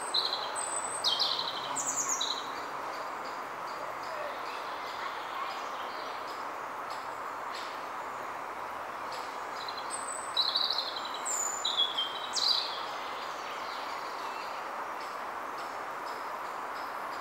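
A songbird singing two short bursts of quick, high notes with falling sweeps, one at the start and another about ten seconds in, over steady background noise.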